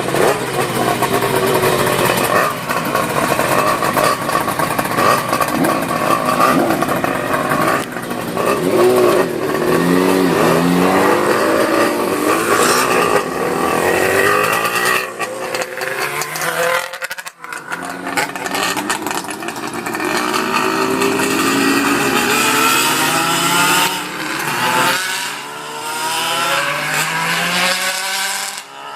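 Classic motorcycle engines running and being revved, their pitch rising and falling again and again, with a brief break about seventeen seconds in.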